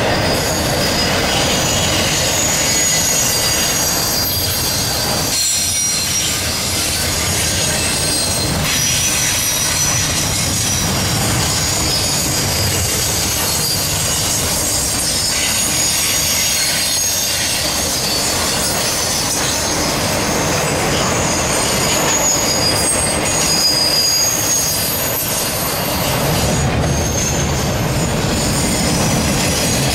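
Train cars rolling past on steel wheels with a steady rumble, the wheels squealing against the rails in thin, high, wavering tones throughout.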